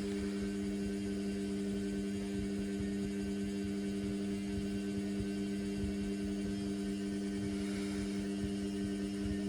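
Indesit washing machine's motor turning the drum through the wash, a steady even hum with a low uneven rumble underneath.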